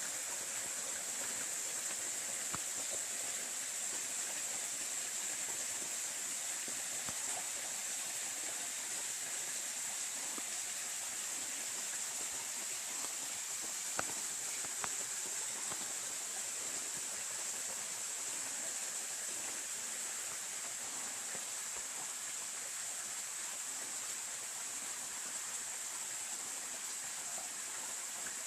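Valley stream water flowing, a steady even rush with no break, and one small click about halfway through.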